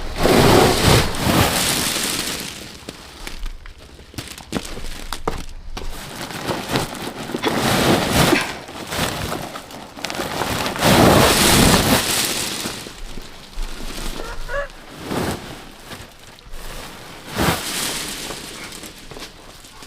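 Bursts of dry rustling and crackling, five in all, loudest at the start and about eleven seconds in.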